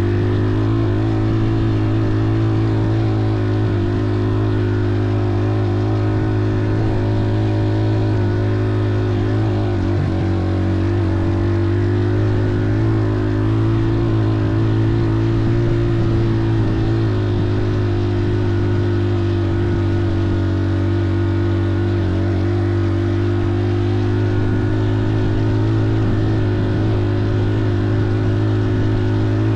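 An engine running at a steady speed, its pitch almost unchanging throughout.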